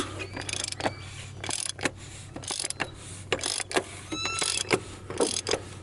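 Ratchet wrench fitted with an oil filter cap adapter, clicking in short uneven runs as the already-loosened oil filter housing cap is unscrewed. A brief metallic ring about four seconds in.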